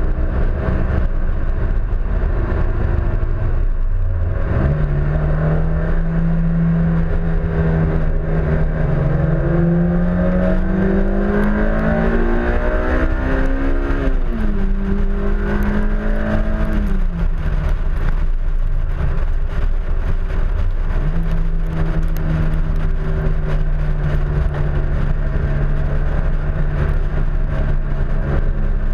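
Honda S2000's four-cylinder engine under track driving, heard from outside the car with a heavy rumble of rushing air. The engine note holds steady, climbs for several seconds past the middle, drops sharply and falls away, then settles into a steady note again near the end.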